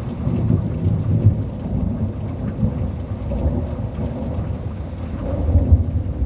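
Thunder rumbling low over steady rain, swelling about a second in and again near the end.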